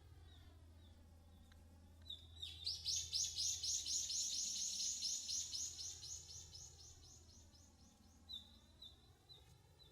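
Okinawa woodpecker calling: a fast run of high, sharp notes starting about two seconds in and lasting several seconds, then a few single notes spaced apart near the end.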